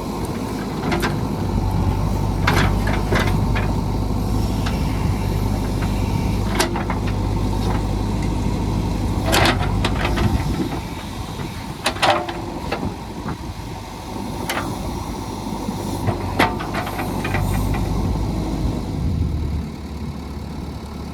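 JCB 3DX backhoe loader's diesel engine running, with scattered sharp knocks and cracks over it; the engine note drops about halfway through and again near the end.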